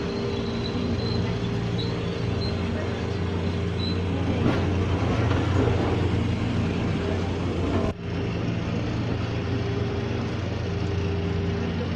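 Ex-JR 203 series electric multiple unit running on the rails: a steady hum with several constant tones over rolling noise. It grows louder around the middle and dips sharply for a moment about eight seconds in.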